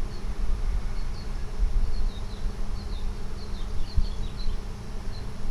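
Honey bee swarm buzzing with a steady hum as the bees move in and out of a hive box they are taking over. Underneath runs an uneven low rumble.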